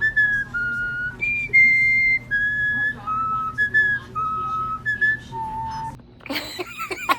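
Pet parrot whistling a tune copied from people: about a dozen clear, held notes stepping up and down like a melody, then a short burst of harsher chatter near the end.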